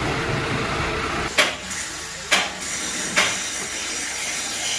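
Three sharp metallic knocks, about a second apart, each with a short ring, over a steady background hiss.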